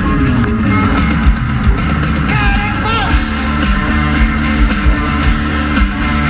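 Rock band playing loud live music: electric guitars and a drum kit with a steady beat, and a short wavering, bending note a little over two seconds in.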